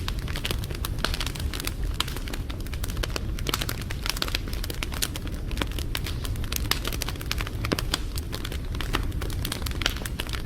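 Wood fire crackling: frequent irregular sharp pops and snaps over a low steady rumble of burning.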